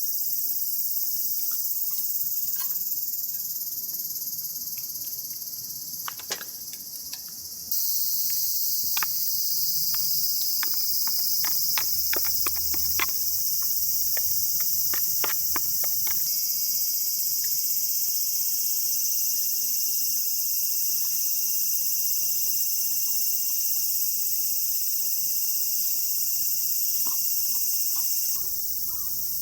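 A steady, dense, high-pitched chorus of summer insects, with a run of sharp clicks and snaps in the middle stretch.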